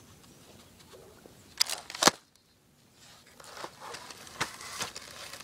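A few sharp clicks just before two seconds in, then after a short pause a stretch of uneven rustling.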